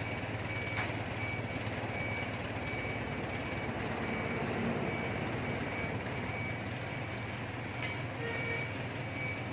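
Steady low mechanical hum with a short high beep repeating about twice a second, like a reversing alarm, and two brief clicks, about a second in and near the end.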